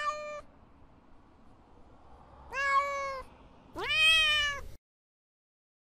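Domestic cat meowing three times: a short meow at the start, another about two and a half seconds in, and a longer, louder meow about a second after that which rises and then falls in pitch.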